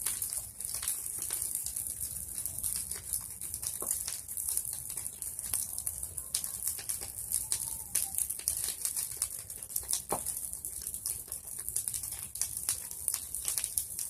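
Bonfire of pruned tree branches burning, a steady hiss with many sharp crackles and pops. A short falling whistle sounds about ten seconds in.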